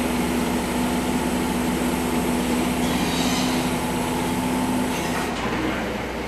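A machine motor running with a steady hum, which drops away about five seconds in.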